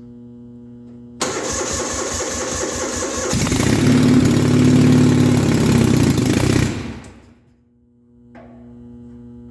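1971 Gravely 450's engine cranked by its electric starter about a second in, catching and running for about three seconds, then dying out. It is not yet running on its own, which the owner puts down to the freshly rebuilt carburettor still filling.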